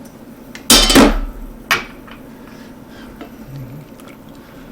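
Two knocks of cookware as butter goes into the pot: a loud clatter about a second in, then a smaller knock about a second later.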